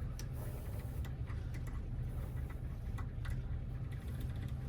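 A handful of small, irregular clicks and ticks as a Toyota door lock cylinder and its wafers are handled, over a steady low hum.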